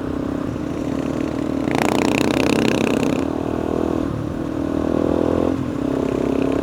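Single-cylinder dirt bike engine running on the move, its pitch rising and falling with the throttle. A burst of clattering, scraping noise sits over it from about two to three seconds in.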